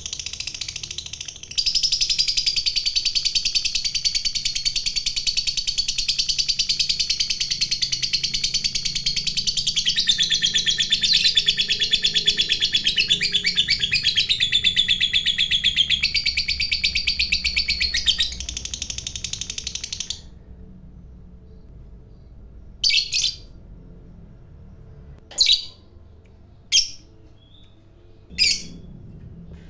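Lovebird singing a long, unbroken, very rapid high-pitched chattering trill, the 'ngekek panjang' song, for about eighteen seconds. It then stops, and four single short chirps follow at intervals of a second or two.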